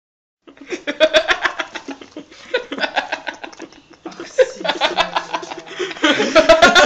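A dog smacking and licking a mouthful of peanut butter: rapid wet mouth clicks, several a second, with people laughing and talking over it, the voices loudest near the end.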